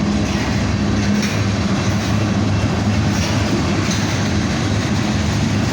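Union Pacific freight train of loaded tank cars rolling past, the wheels clattering steadily on the rails over a steady low hum.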